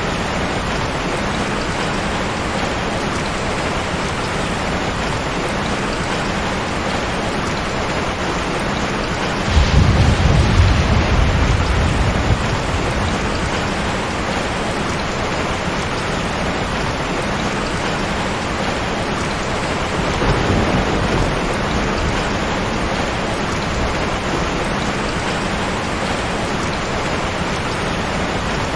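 Heavy rain falling steadily, with a low rumble of thunder swelling about ten seconds in for a few seconds and a weaker rumble around twenty seconds in.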